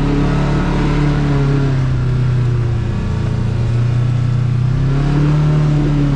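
Kawasaki KRX side-by-side's parallel-twin engine running under way, its pitch sinking as it eases off about two seconds in, then rising again as it picks up speed about five seconds in.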